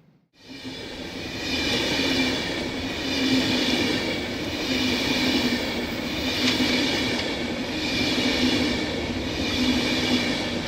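Train running on the Semmering mountain railway. A steady rumble swells and eases about every second and a half, with high ringing tones over it. The sound rises within the first second.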